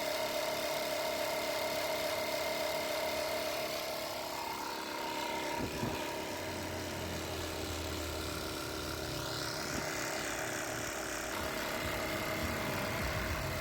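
Portable tyre-inflator air compressor, run from a separate battery, pumping up a van's spare tyre with a steady rhythmic drone; the tone of the running changes about five seconds in.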